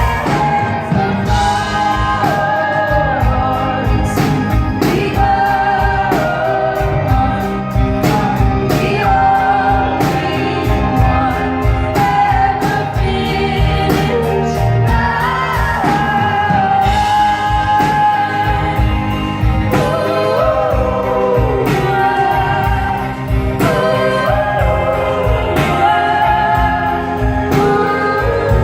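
Live band music: a song with female voices singing together over guitar, bass and drums.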